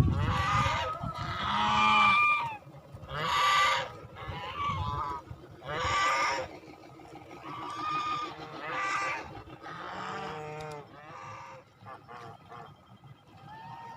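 A flock of white domestic geese honking, with separate calls about every second that grow fainter over the last few seconds.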